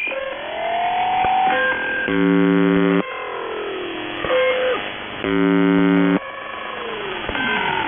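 Shortwave radio reception of UVB-76: the station's harsh buzz tone sounds for about a second roughly every three seconds. Between the buzzes, a pirate's sliding whistle-like tones rise and fall over the channel.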